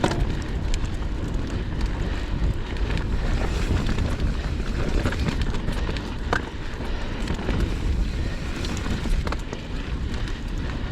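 Mountain bike riding down a dirt trail: tyres rolling over dirt and stones, with scattered clicks and rattles from the bike, under steady wind noise on the microphone.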